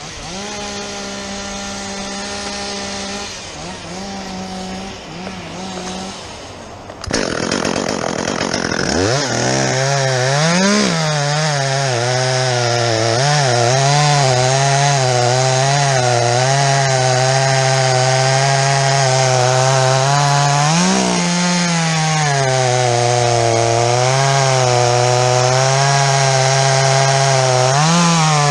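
Chainsaw running at a steady high speed for several seconds, then stopping. It revs up and cuts through wood, its pitch sagging under load and briefly rising each time the chain frees. The uploader says the chain wasn't very sharp.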